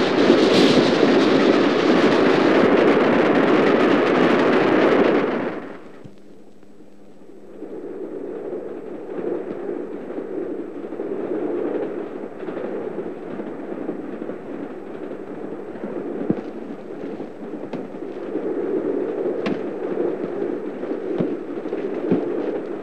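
Mail train passing at speed at night, a loud rushing noise that cuts off abruptly after about five seconds. Then the quieter, steady rumble and rattle of the moving train heard from inside a sorting carriage, with scattered clicks.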